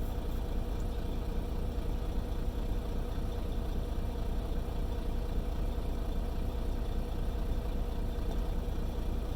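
Semi-truck's diesel engine idling steadily: a constant low rumble with no change in speed.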